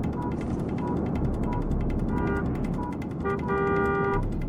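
Crash-scene traffic sounds: short high beeps repeating about every two-thirds of a second over rapid clicking and a low rumble of vehicles. A car horn sounds briefly about two seconds in and again, longer, near the end.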